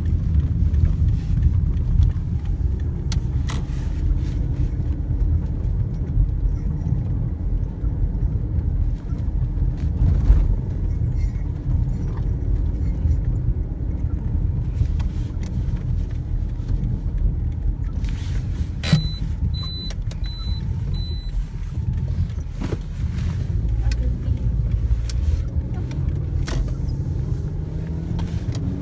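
A car on the move: steady low road and engine rumble with scattered short clicks, and a run of four short high-pitched beeps about two-thirds of the way through.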